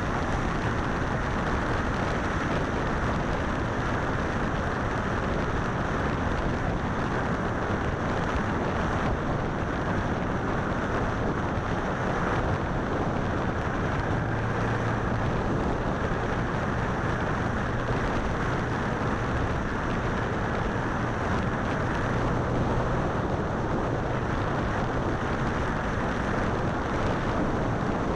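Motorcycle riding at speed: steady wind rush on the microphone over the bike's running engine. A low hum comes up for a few seconds around the middle.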